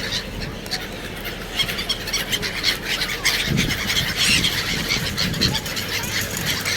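A flock of black-headed gulls calling, with many short, overlapping cries that grow busier about a second and a half in.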